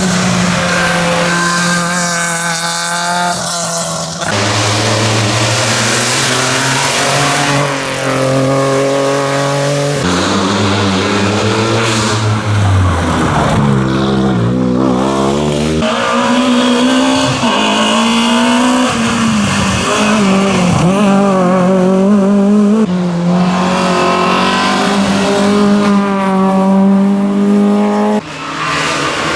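Rally cars at full throttle, one after another, with engines revving up and dropping back through gear changes.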